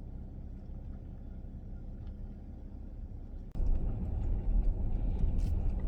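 Low, steady rumble of a vehicle moving slowly, heard from inside the cab. About three and a half seconds in it jumps abruptly louder, with a few faint clicks.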